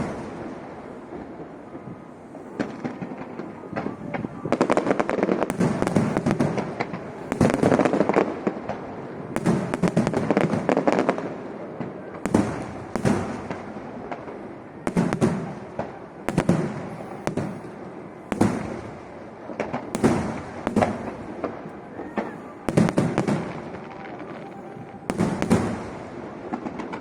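Aerial fireworks shells bursting overhead in a steady barrage: single booms about every second, each with a short echoing tail, and stretches of dense crackling from about 4 to 11 seconds in.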